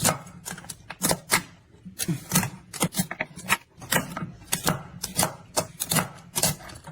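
Raw crab being chopped into pieces on a cutting board: a run of sharp knocks, about two a second.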